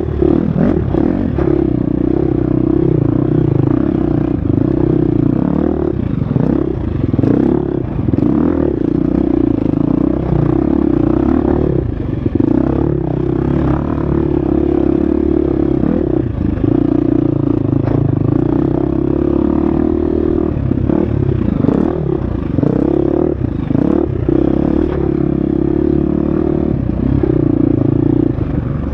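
Husqvarna FX 350 four-stroke single-cylinder dirt bike engine running hard on a trail, its pitch rising and falling as the rider throttles on and off and shifts gears, with frequent knocks and rattles from the bike over rough ground.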